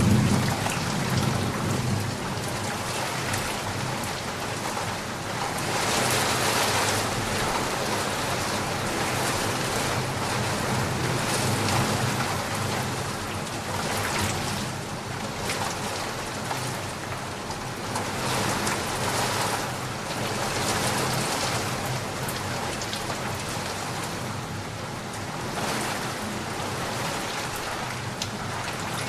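Steady rain, swelling and easing every few seconds. The tail of a thunder rumble dies away in the first couple of seconds.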